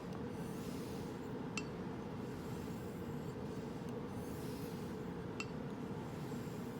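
Faint swishing strokes of a straight razor's blade drawn across a hone or strop, with a sharp click twice as the razor is flipped over on its spine.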